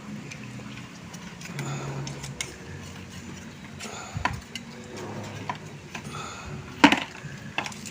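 A few scattered clicks and knocks of kitchen utensils and dishes being handled over a faint low murmur, the sharpest click about seven seconds in.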